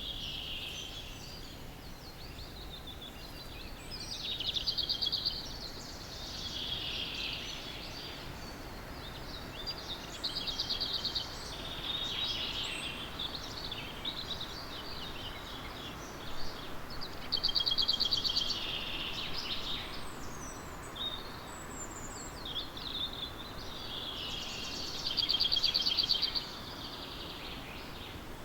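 Dawn chorus of songbirds over a faint steady background hiss. One bird repeats a loud song phrase of about two seconds, built around a fast trill, roughly every seven seconds, while other birds chirp more quietly in between.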